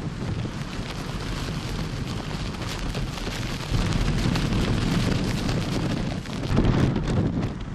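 Typhoon-force wind and heavy rain, the wind buffeting the microphone with a heavy low rumble; gusts swell about four seconds in and again near the end.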